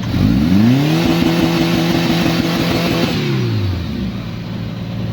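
An offroad vehicle's engine is revved up sharply, held at high revs for about two seconds, then let fall back to a steady idle.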